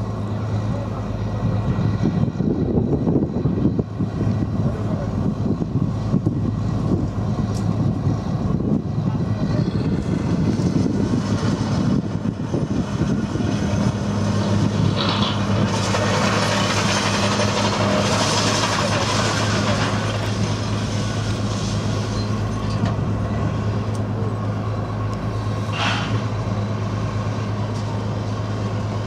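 Engine of a Type 94 amphibious mine-laying vehicle running steadily, heard aboard, with a rushing hiss swelling up about halfway through.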